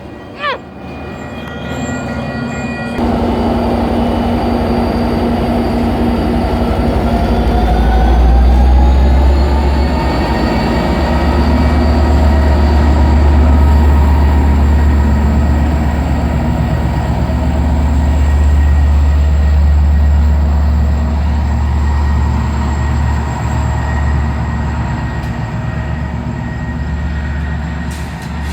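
Commuter train running through the station: a heavy low rumble sets in about three seconds in, and a whine rises in pitch over several seconds, then holds steady.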